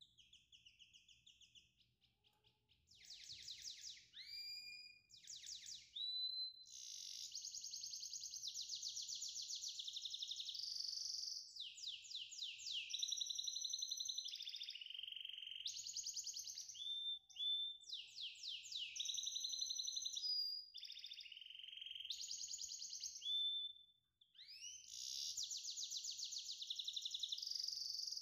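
Birdsong: a small songbird singing long phrases of fast trills and high held whistles, broken by short pauses.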